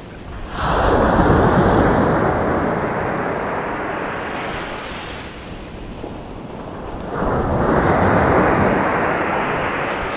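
Sea waves breaking on a beach. Two waves crash, one about half a second in and another about seven seconds in, and each hisses and washes out slowly afterwards.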